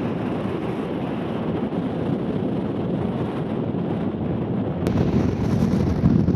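Strong wind buffeting the camera's microphone in a steady rumbling noise, with a sharp click about five seconds in, after which the wind is a little louder.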